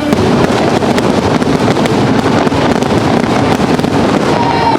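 Fireworks crackling and popping in quick succession, a dense run of many small bursts.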